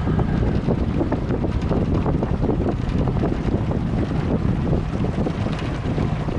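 Wind buffeting the microphone: a steady, noisy low rumble with irregular gusty crackles.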